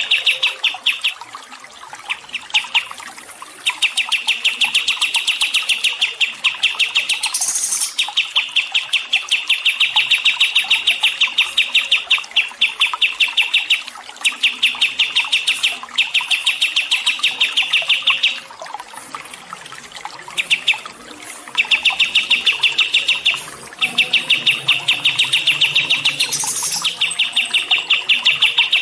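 A songbird singing long, fast trills of evenly repeated notes, each run lasting a few seconds with short pauses between. Twice, once early and once near the end, a brief higher, hissy note cuts in.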